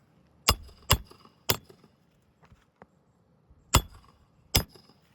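A hammer striking roofing nails into a shingle: five sharp blows, three in quick succession and then two more after a short pause.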